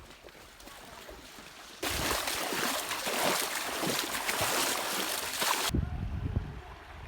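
Rushing river water, a loud even splashing noise that starts suddenly about two seconds in and cuts off sharply near the end, leaving a low rumble.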